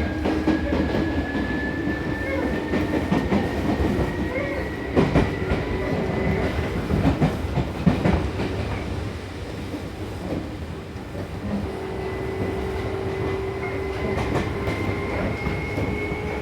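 Seibu New 2000 series electric train running on its line, its motors giving a thin whine that climbs slowly in pitch as the train gathers speed, over steady wheel-and-rail rumble. A few sharp knocks from the wheels crossing rail joints come a third of the way through and again about halfway.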